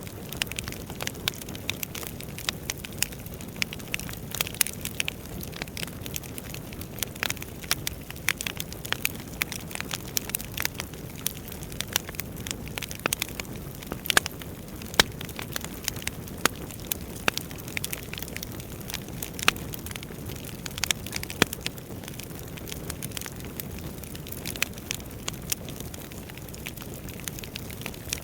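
Wood fire burning in a fireplace: a steady low rush of flames with irregular crackles and sharp pops from the burning logs, a few louder snaps in the middle.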